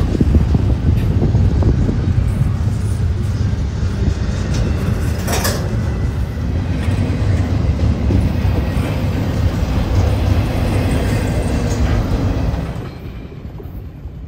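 Double-stack intermodal container train rolling past close by: a loud, steady rumble of steel wheels on rail with rattling cars. The sound drops off sharply near the end as the last cars move away.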